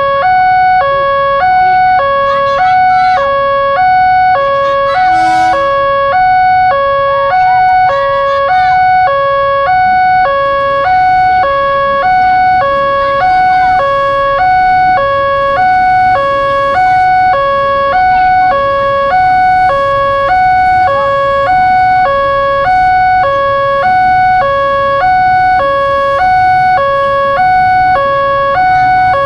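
Electronic warning alarm of an Indonesian level crossing, sounding a steady two-tone high-low ding-dong about once a second. A low rumble grows beneath it from about ten seconds in.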